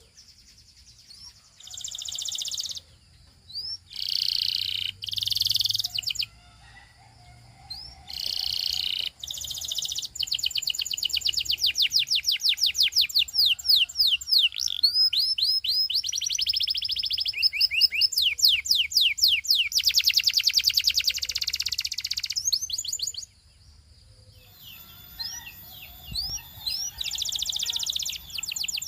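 Belgian singing canary singing: a few short bursts of song, then from about ten seconds in a long, fast trill of rapidly repeated notes. It stops briefly about two-thirds through, then the song resumes near the end.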